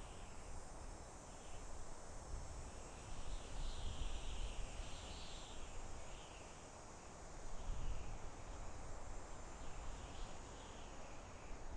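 Soft wind blowing through a forest, swelling and easing in gentle gusts, with a steady high chorus of insects behind it.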